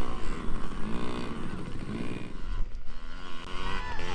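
Dirt bike engines running on a motocross track, their pitch rising and falling as the riders rev and ease off.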